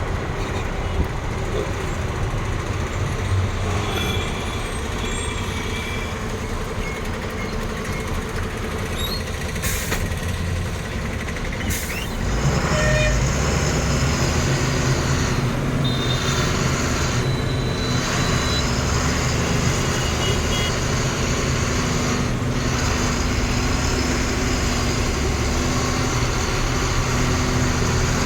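Truck engine and road noise while driving, with two sharp clicks just before halfway. About halfway through the engine gets louder and deeper and holds there, as under acceleration.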